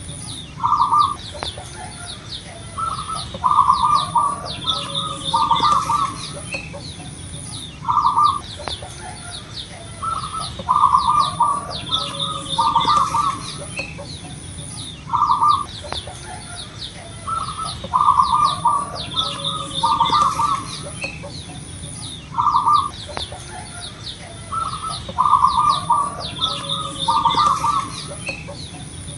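Zebra dove (perkutut) cooing loudly in repeated stuttering phrases, a cluster of short notes every two to three seconds. High chirps and a pulsing high whine run behind it.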